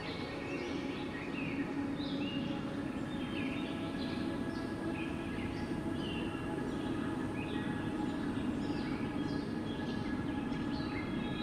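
Steady, low wind rumble, with many short, high bird chirps repeating over it.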